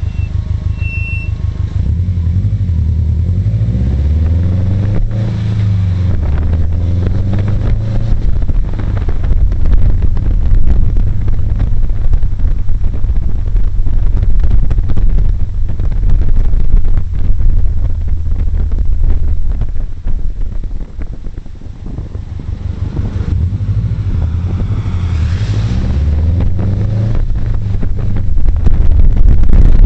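Subaru Impreza WRX STI's turbocharged flat-four engine accelerating on the road, its note climbing in steps a few seconds in and again after a brief easing off about two-thirds through. Heavy wind buffets the exterior-mounted microphone over the engine and tyre noise.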